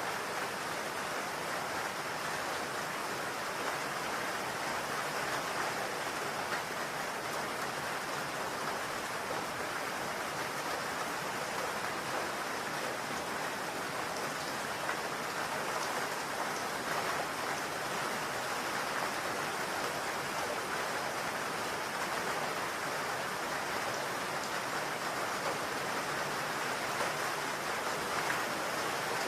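Steady rain falling on a roof, an even patter of drops without a break.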